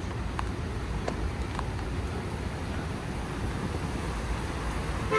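Street ambience: a steady low rumble of road traffic, with wind buffeting the microphone.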